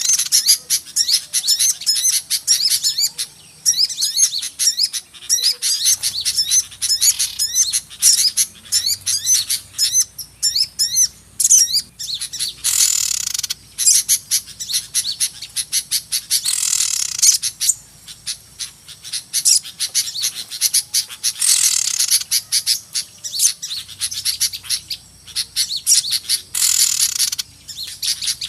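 Lure recording of a noisy flock of small birds chirping rapidly and overlapping, with a harsher, rasping call every four to five seconds, the kind of excited chatter that bird trappers play to draw small birds in.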